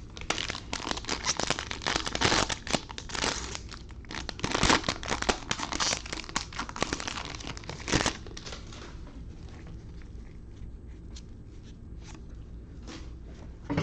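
Plastic wrapper of a trading-card fat pack being torn open and crinkled, in dense crackling bursts for about nine seconds, then only a few faint clicks.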